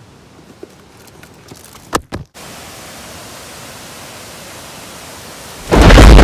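Faint small ticks and one sharp knock about two seconds in, then a brief dropout and a steady hiss. Near the end, loud wind buffeting the microphone sets in suddenly.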